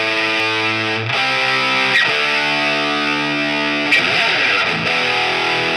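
Distorted electric guitar playing held chords that change every second or two, with a rougher strummed passage about four seconds in.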